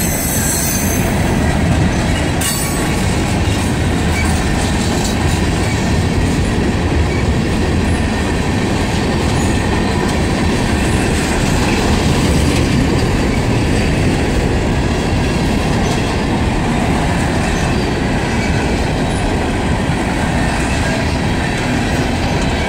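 Freight train cars rolling past close by: a steady, loud run of steel wheels on rail as the train gathers speed.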